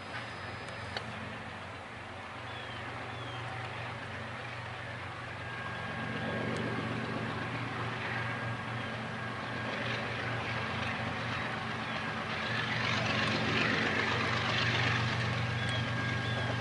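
Diesel locomotive engine running with a steady low hum, growing louder about six seconds in as rumbling train noise builds.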